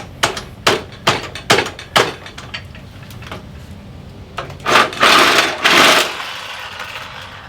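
A hammer striking the steel motorcycle frame, a string of sharp blows about two or three a second over the first couple of seconds. About five seconds in comes a louder noisy stretch lasting just over a second.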